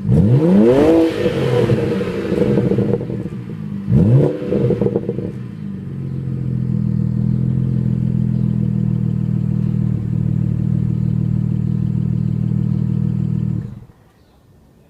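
BMW 335i's N54 twin-turbo 3.0-litre inline-six on its stock exhaust, blipped twice, the revs rising and falling each time, with a rush of hiss after the first blip. It then settles to a steady idle and is switched off near the end, the sound cutting off suddenly.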